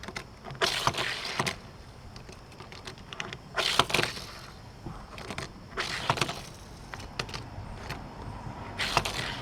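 A small die-cast toy car's plastic wheels rolling and skidding across a surface in four short pushes, with light clicks of the car being handled in between.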